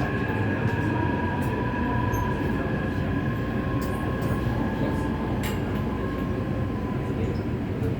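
Taipei Metro C381 subway train running at speed through the tunnel, heard from inside the car: a steady low rumble with thin, steady high-pitched whine tones over it.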